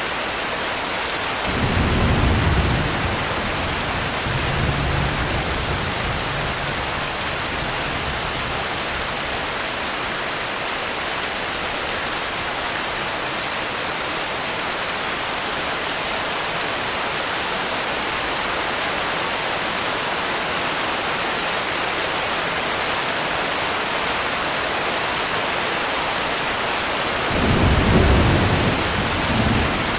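Steady heavy rain with two low rolls of thunder, one about two seconds in that trails off over several seconds, and another near the end.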